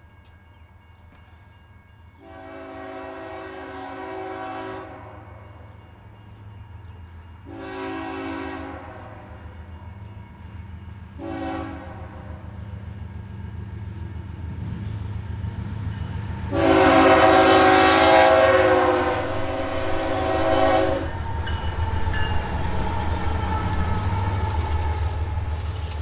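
BNSF diesel freight locomotive's air horn sounding the grade-crossing signal, long, long, short, long: the train is approaching a crossing. Each blast is louder than the one before, the last long one loudest. Under the horn, the low rumble of the passing train grows from about halfway through and carries on after the horn stops.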